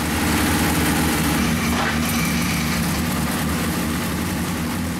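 Car engine idling steadily, a constant low hum with a broad hiss over it, easing off slightly near the end.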